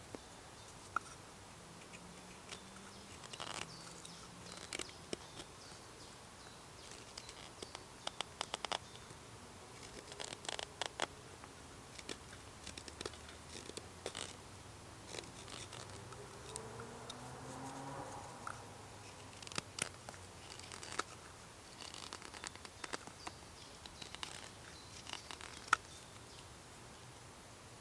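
Scattered small clicks, taps and short scrapes, like things being handled close by, with a faint rising tone about two thirds of the way through.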